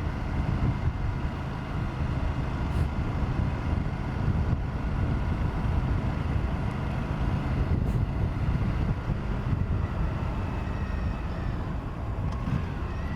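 Aprilia RS 457's parallel-twin engine running under way while riding, under heavy wind rumble on the microphone. The engine note rises briefly near the end.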